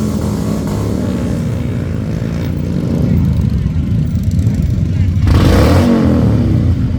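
Motorcycle engine revved hard and held at high revs near red line, getting louder about three seconds in, with a brief burst of noise about five and a half seconds in.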